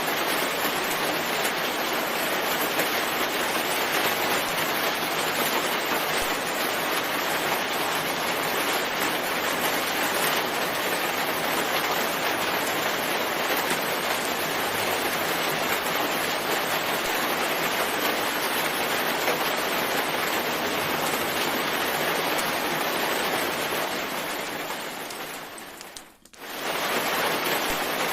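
Steady heavy rain falling in a forest, an even hiss. About four seconds before the end it fades away almost to silence, then comes straight back at full strength.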